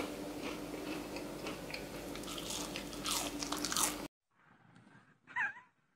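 Crunchy chewing of a crispy fried eggplant chip coated in cornmeal and breadcrumbs, dense crackles over a steady low hum. About four seconds in it cuts off abruptly, and a short vocal sound follows near the end.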